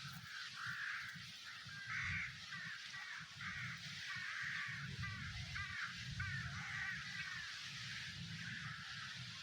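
A flock of birds calling over one another in a continuous chatter of short, wavering calls, with a low, unsteady rumbling noise underneath.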